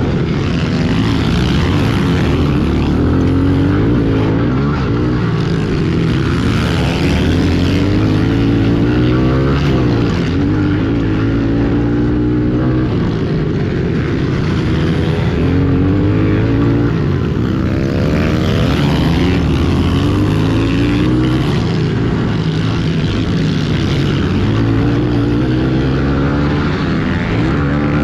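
Pit bike engines racing, their pitch rising and falling again and again as the throttle opens and closes.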